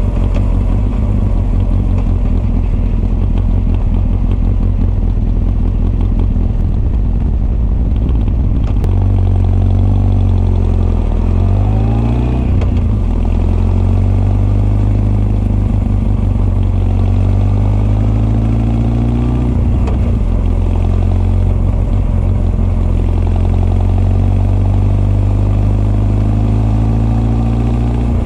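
Honda CB1300 SF's inline-four engine, breathing through Keihin FCR41 carburettors into an r's gear Wyvern full exhaust, running under way. The engine note dips and climbs again about eleven to thirteen seconds in, and changes pitch again near twenty seconds.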